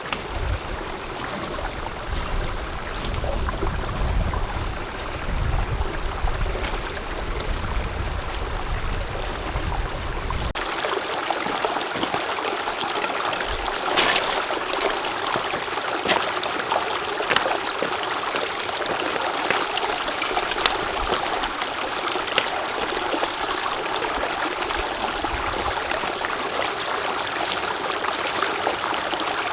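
Mountain stream water flowing steadily. A low rumble sits under it for the first ten seconds or so and stops abruptly, and occasional sharp ticks come after.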